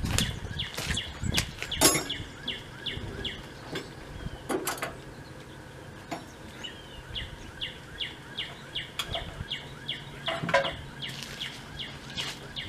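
A bird repeating a short, high, falling chirp about two or three times a second, with a pause partway through. A few sharp clicks and knocks come in the first two seconds, the loudest near the two-second mark.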